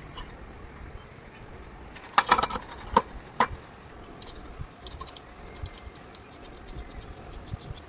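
Metal clinking and clattering, like hand tools and small engine parts being handled: a cluster of loud clanks about two seconds in, two more single clanks soon after, then a run of light ticks.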